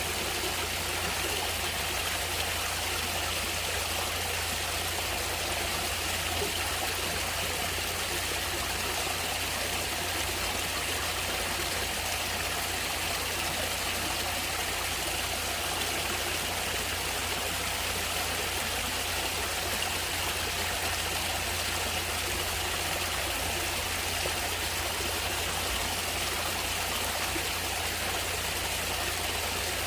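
Water flowing steadily in a natural stream, an even, unbroken trickling and running sound.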